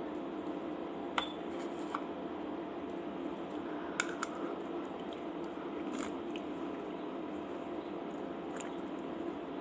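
A person eating soft food, with squishy chewing and a few sharp clicks, the loudest about four seconds in, over a steady background hum.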